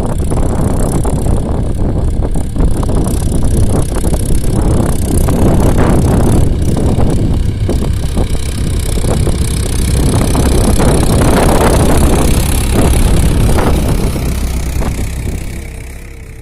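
Tractor engine running steadily, with some wind on the microphone; the sound fades out near the end.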